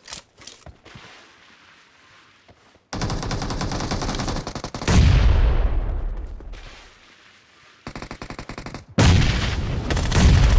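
Automatic gunfire in a team-based shooter video game. A few faint clicks come first, then a burst of rapid fire about three seconds in and a louder, deeper blast near the middle that dies away. Further bursts follow and turn into sustained rapid fire near the end.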